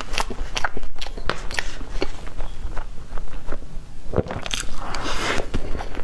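A person chewing mouthfuls of soft cream sponge cake, close-miked, with many wet mouth clicks and smacks. A metal fork cuts through the cake.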